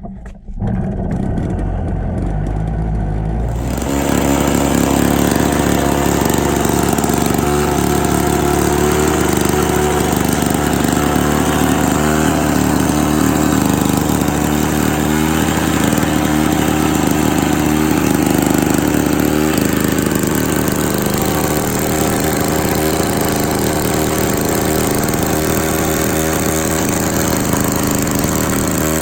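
Victa 18 lawn mower's two-stroke engine catching and running; about four seconds in it picks up to a fuller, louder, steady run. This is its first start after being bought, and it started on the second pull.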